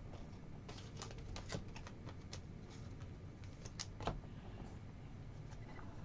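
Faint, scattered light clicks and taps of trading cards and card packs being handled and sorted, with a few slightly louder taps about four seconds in.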